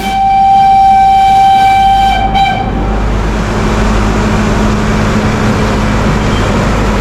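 Nilgiri Mountain Railway train sounding one long horn blast lasting about two and a half seconds, followed by the steady rumble of the train running.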